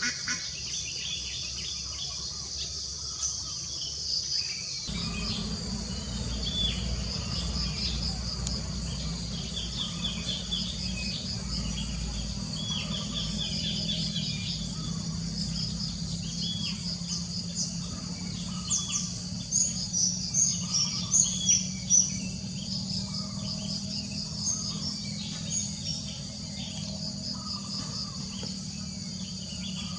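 Crickets and other insects chirp in a steady, high pulsing chorus while wild birds call with short, repeated chirps. A cluster of louder, sharper chirps comes about two-thirds of the way through. A low steady hum comes in about five seconds in.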